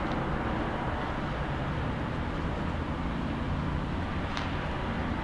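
Distant low rumble of an approaching EP2K electric locomotive and its passenger train, over steady outdoor background noise, with two faint short ticks.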